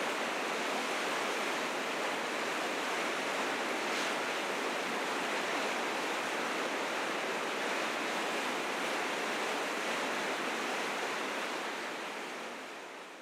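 River rapids rushing in spring flood: a dense, steady roar of white water that fades out near the end.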